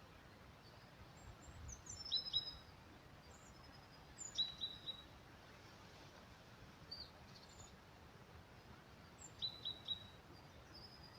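Small birds giving short, high chirps in quick clusters of two or three notes, every few seconds, over a faint steady hiss of forest ambience.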